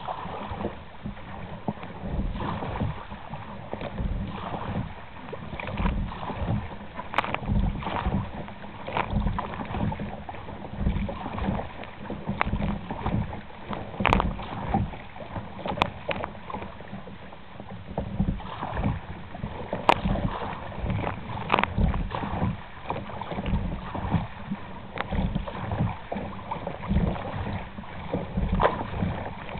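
Kayak paddle strokes dipping and splashing in lake water, roughly one stroke a second, with wind buffeting the microphone and a few sharp knocks along the way.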